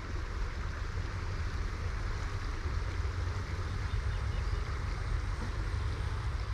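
Wind buffeting the microphone: a steady, fluttering low rumble with an even rush of noise over it.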